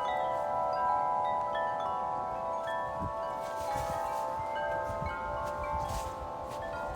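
Wind chimes ringing steadily in gusty wind, many overlapping sustained notes sounding at once. Low wind gusts buffet the microphone in the middle of the stretch.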